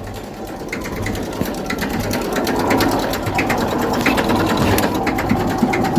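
Massey Ferguson tractor's diesel engine running with a fast, even clatter while reversing a loaded trailer, growing louder over the first two seconds or so.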